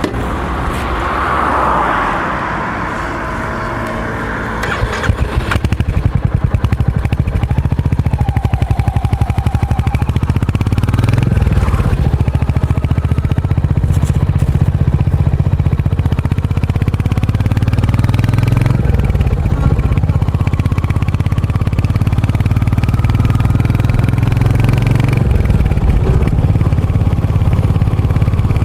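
Royal Enfield Hunter 350's single-cylinder engine and exhaust running under way on a ride. It gets louder about five seconds in, and its pitch shifts a few times as it changes speed.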